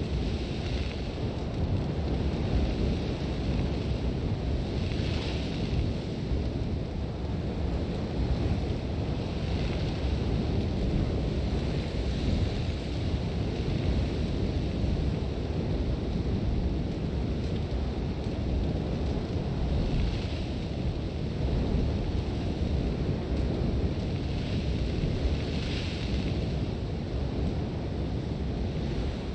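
Sandstorm wind: a steady deep rumble, with gusts of blown sand hissing up for about a second every few seconds.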